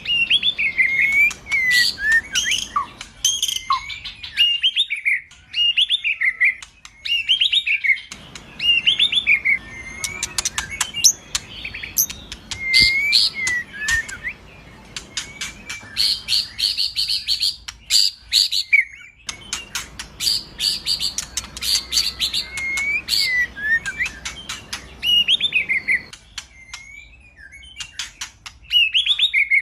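Male white-rumped shama (murai batu) singing a long, varied song. Loud whistled phrases slide down in pitch, mixed with fast clicking chatters and rattles, with short pauses between runs.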